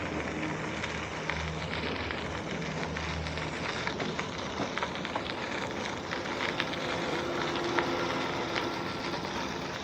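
Steady rushing noise of a road bike being ridden: wind on the microphone and tyres rolling on the path, with a few light clicks.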